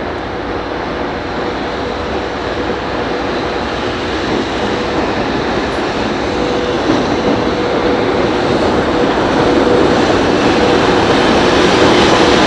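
A train approaching, its running noise growing steadily louder, with a steady hum held throughout.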